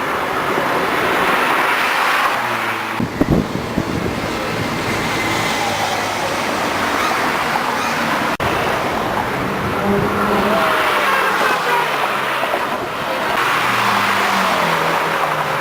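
Sports car engines running along a busy street amid traffic noise, rising and falling as cars go by. A short burst of louder low engine noise comes about three seconds in, and the engine pitch steps up and down later on.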